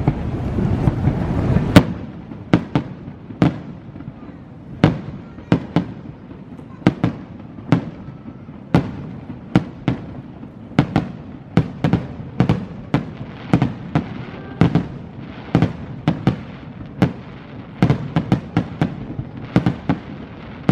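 Fireworks shells bursting in quick succession, a rapid run of sharp bangs at about two a second, after a low rumbling start.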